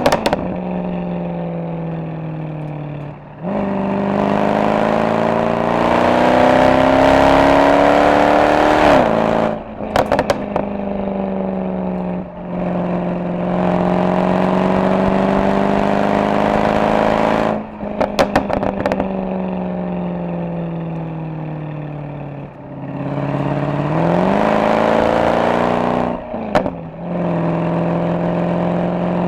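Mercedes-AMG SL63's V8 engine and exhaust pulling hard three times, the pitch climbing through the revs and then falling away as the throttle is lifted. Each lift-off brings a short burst of exhaust crackles and pops.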